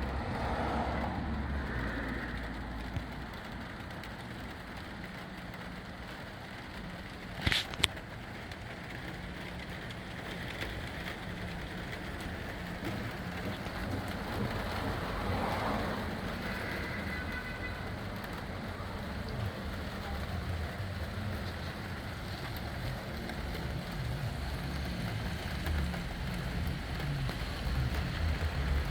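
Rain falling steadily while gusty thunderstorm outflow wind buffets the microphone with an uneven low rumble. One sharp click comes about seven and a half seconds in.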